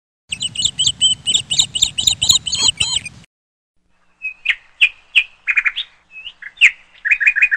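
Small songbird chirping: a fast run of high chirps that cuts off abruptly about three seconds in, then after a short gap a looser series of sharp chirps and short trills.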